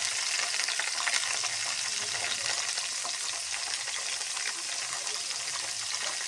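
Freshly washed green beans sizzling and crackling in hot mustard oil in a wok-shaped kadai: a dense, steady frying hiss full of small pops that eases slowly.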